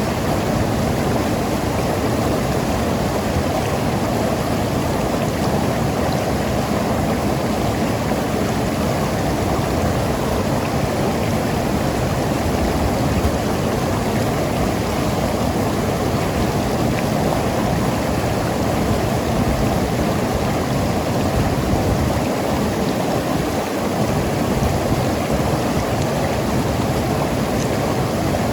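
Mountain river rushing and gurgling over rocks, a steady loud water noise without pauses.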